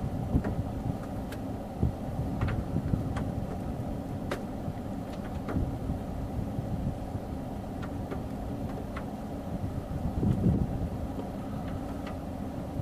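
Steady low rumble of an idling vehicle engine, with a short louder swell about ten seconds in and a few faint scattered clicks.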